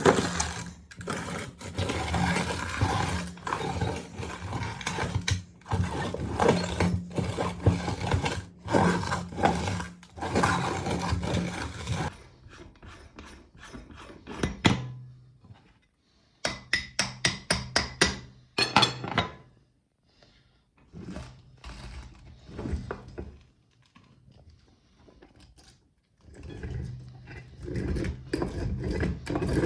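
Electric meat grinder running with a steady motor hum while it crunches and grinds hard lollipop candy. The crunching is dense at first, then breaks into a quick run of sharp cracks, goes quiet with scattered crunches, and picks up loudly again near the end.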